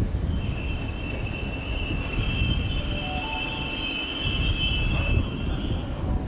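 A train running over the track with a low rumble and a high, steady metallic wheel squeal that starts about half a second in and dies away near the end.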